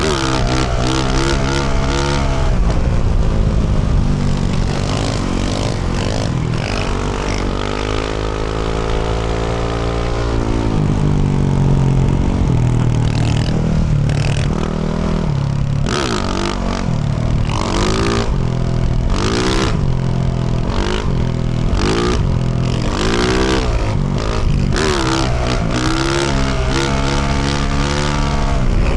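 2024 Yamaha YZ450F single-cylinder four-stroke engine through a Yoshimura RS-12 exhaust, revving up and falling off again and again as the bike is ridden through the gears. About a third of the way in it holds a steadier pitch at even throttle for a few seconds.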